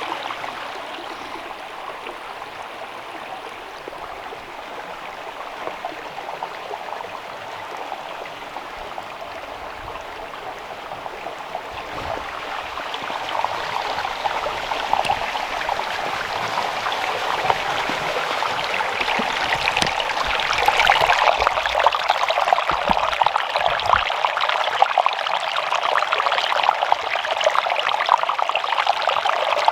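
Water running and splashing over rocks in a small stream or cascade, a steady rush that grows louder about halfway through.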